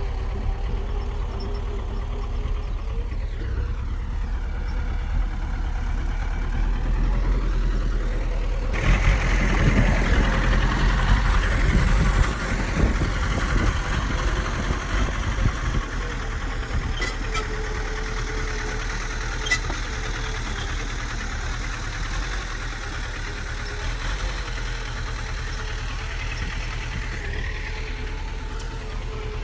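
Heavy diesel engine of a bulldozer running steadily. About nine seconds in it turns suddenly louder and rougher for a few seconds, as under load, then settles back to a steady run.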